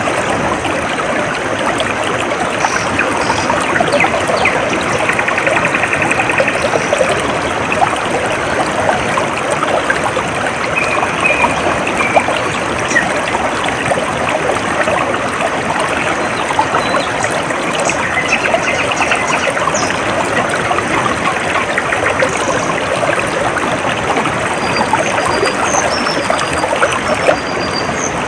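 A small stream trickling and babbling steadily over stones, with a few short, high bird chirps scattered over it, more of them near the end.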